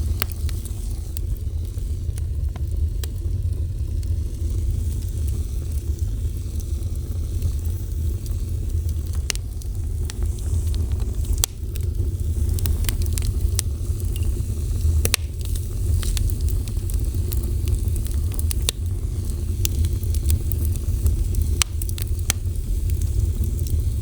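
Fire burning with a steady low roar and scattered sharp crackles and pops, more of them in the second half.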